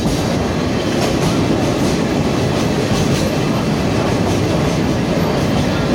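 Sagano Romantic Train running along the track: a steady rumble of wheels on rails with occasional clickety-clack from the rail joints.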